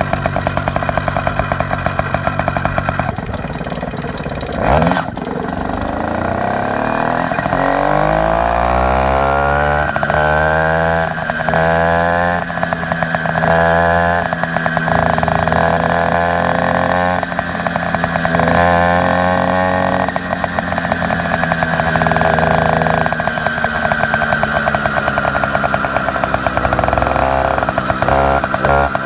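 Motorized bicycle's small engine with an upgraded exhaust, first idling with a fast, even pulse, then revving up about seven seconds in and holding high revs with a few dips. Near the end it drops back to idle.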